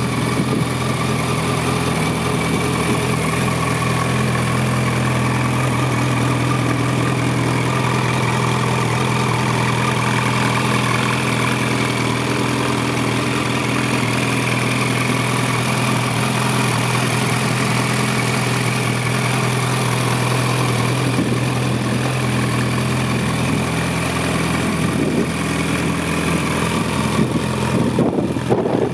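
Yamaha FZ1S Fazer's inline-four engine idling steadily through a Lextek aftermarket exhaust.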